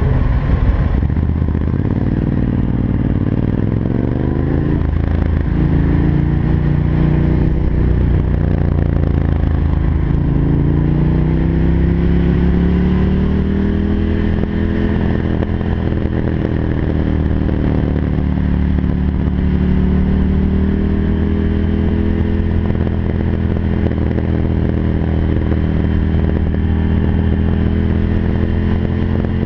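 Ducati Monster 796's air-cooled L-twin engine with a loud Arrow exhaust, baffles removed, pulling at low speed: its pitch rises and falls several times as it accelerates and changes gear, then holds steady over the last several seconds.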